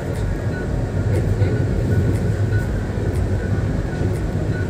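Navjeevan Express passenger train running at speed, heard from inside the coach: a steady low rumble of wheels on track, with faint irregular clicks.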